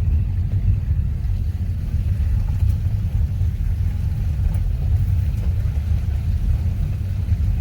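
Wind buffeting the microphone: a steady, fluttering low rumble with little else above it.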